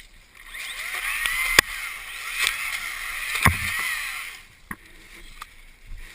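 Dirt bike engine revving up and down at a distance. Two sharp knocks come about a second and a half in and again past the middle.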